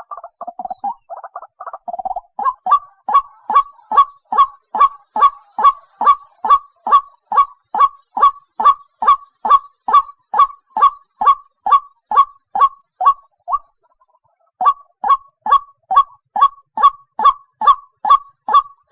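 White-breasted waterhen calling: a rough, chattering run at first, then a long, even series of short 'kook' notes at about three a second, with a brief pause about three quarters of the way through. This is the March breeding call that is played back as a lure.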